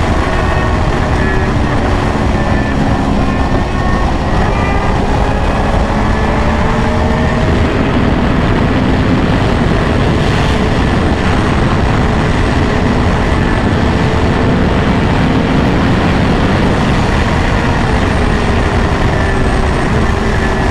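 Yamaha R1's crossplane inline-four engine running at a fairly steady cruise under heavy, steady wind rush, its pitch drifting slowly up and down as the speed changes a little.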